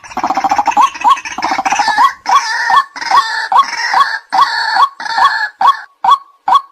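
White-breasted waterhen calling: a short 'kwak' note repeated about two to three times a second. Over the first five seconds or so, harsher overlapping calls join it in a dense chorus.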